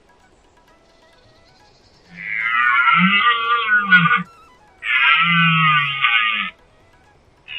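Two loud, drawn-out animal calls, each about two seconds long, with a wavering pitch. A third call begins at the very end.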